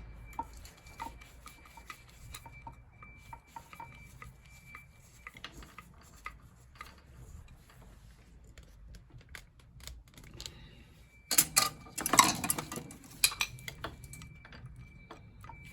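Small clicks and light clatter of boiler parts being handled and unscrewed by hand, with a louder burst of rattling and scraping about eleven seconds in.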